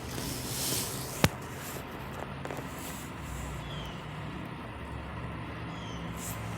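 Engine idling with a steady low hum, left running for over an hour. A single sharp click sounds about a second in.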